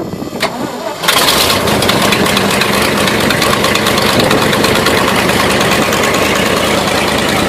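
An engine running steadily, loud and close; it comes in sharply about a second in and keeps a steady beat.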